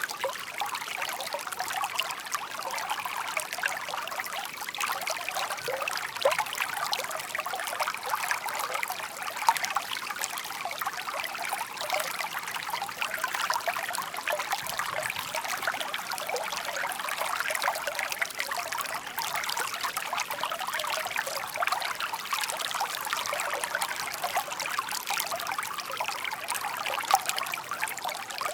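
A shallow park stream trickling and babbling steadily over stones, a continuous bright splashing with many small gurgles.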